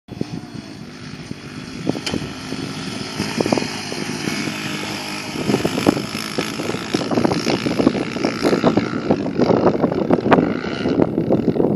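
Suzuki 125 dirt bike engine running, getting louder from about five seconds in.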